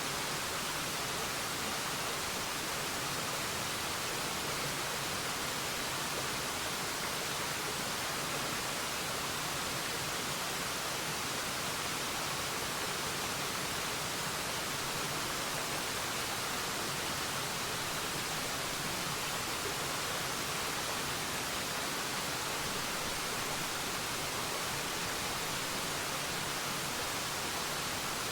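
Waterfall: falling water making a steady, even rush, mostly hissy and high, with no change in level.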